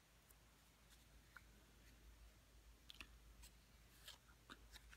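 Near silence broken by a few faint, short clicks of trading cards being handled.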